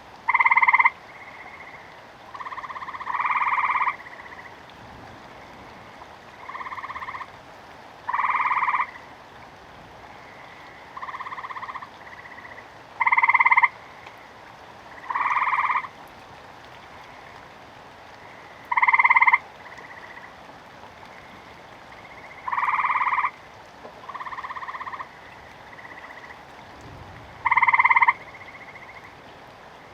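Frogs croaking in the rain: short calls about half a second long, repeating every couple of seconds, some loud and close and others fainter, over a steady hiss of rain. A faint low rumble comes near the end.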